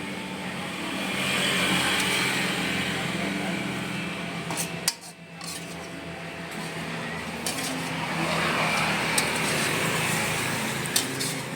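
Cooking at a street-food stall: a hiss of food cooking in a pan swells and fades twice, with a few sharp clinks of metal utensils against the pan, over a steady low hum.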